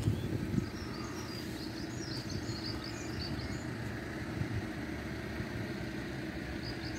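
Small birds chirping over a steady low rumble, with a fresh run of chirps near the end.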